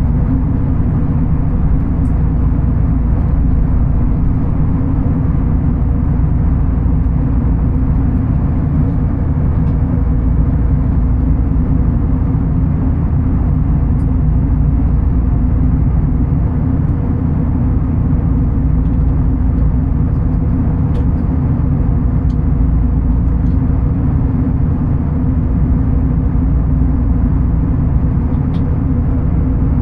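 Steady low vehicle rumble with a steady hum above it, unchanging throughout, with a few faint tiny clicks.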